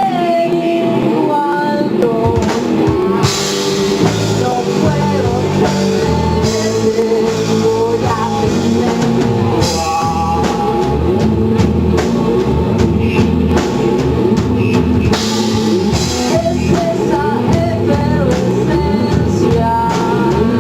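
A rock band playing live: a singer over drum kit and guitar, with several cymbal crashes.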